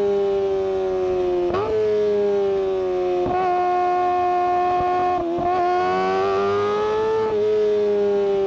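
Kawasaki Ninja ZX-25R's 250 cc inline-four engine and exhaust running at high revs: a loud, high-pitched wail whose pitch drifts slowly down and back up, with short throttle blips or dips about every two seconds.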